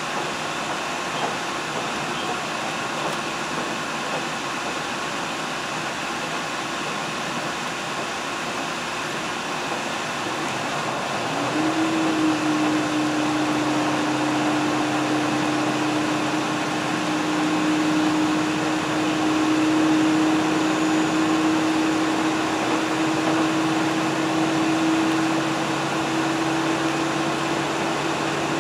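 Train running, heard from inside the passenger car: a steady rumbling noise, joined about twelve seconds in by a steady low engine or motor hum that holds to the end.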